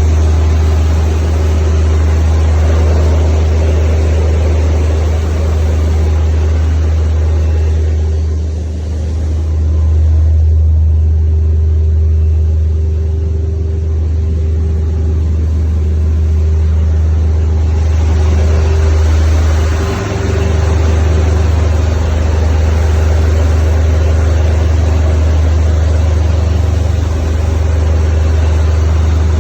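Gas engine running steadily with a deep, loud hum, dipping briefly about a third of the way in and again about two-thirds in.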